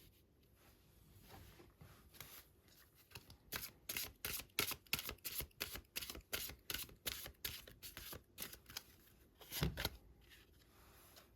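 Tarot cards being shuffled by hand: a quick run of crisp card slaps, about three a second, then one louder thump near the end.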